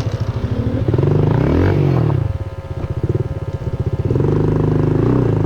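Honda CRF110F pit bike's small single-cylinder four-stroke engine revving while the rider works it free from roots: a rev that climbs and falls back about a second or two in, a lower lull, then the engine picks up and holds higher revs near the end.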